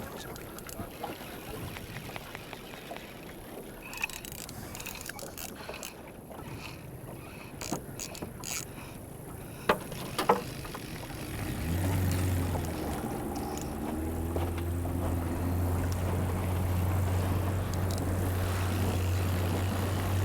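Boat's outboard motor starting up a little past halfway and then running steadily with a low hum, after a stretch of low rubbing and scattered clicks.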